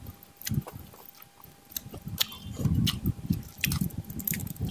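A person chewing and eating close to the microphone: irregular wet chewing and mouth sounds with scattered small clicks.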